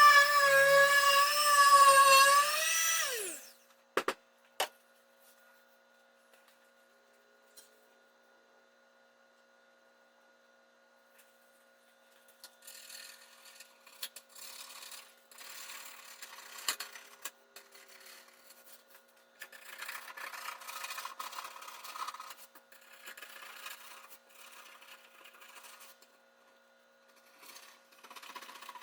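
A power tool's motor runs with a steady whine, then winds down and stops a few seconds in, followed by two clicks. After a quiet stretch come irregular rubbing strokes on the countertop surface, in bursts of a second or two.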